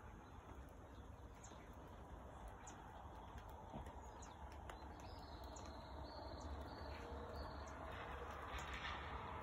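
Faint, scattered short bird chirps over quiet outdoor background noise with a low steady hum. Near the end a rush of noise swells up.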